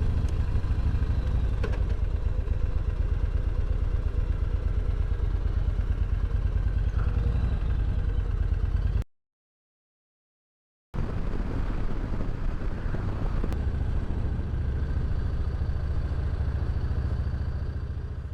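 Motorcycle engine running steadily at riding speed, a low, fast, even exhaust pulse under road and wind noise. The sound drops out completely for about two seconds near the middle, then the same engine sound resumes.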